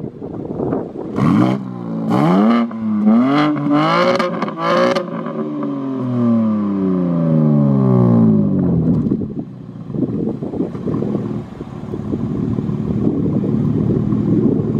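BMW M4 Competition's S58 twin-turbo inline-six with aftermarket downpipes, blipped hard about five times in quick succession in the first five seconds. The revs then fall away in one long slide and settle back to idle for the last few seconds.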